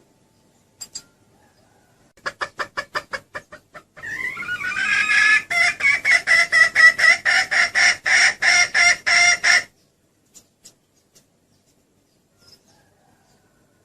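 Junglefowl hen clucking: a short run of clucks, then a longer, rapid cackling series of about four clucks a second that lasts some five seconds and stops abruptly. This is a hen's call of the kind used to lure a junglefowl cock.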